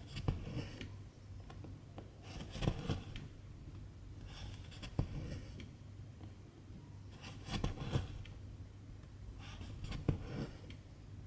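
Needle and silk thread pulled through cross-stitch fabric, a short scratchy rasp with each stitch, five times at roughly two-and-a-half-second intervals, over a low steady hum.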